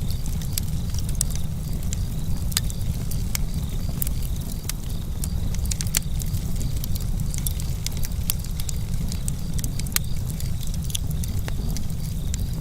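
Campfire burning with a steady low rumble and frequent, irregular sharp crackles and pops of burning wood.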